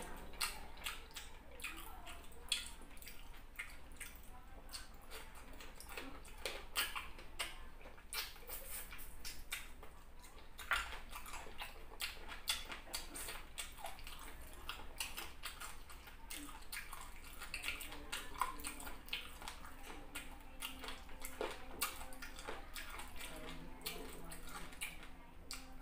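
Close-up chewing and wet mouth sounds of someone eating soft fufu and chicken by hand: irregular lip smacks and small clicks.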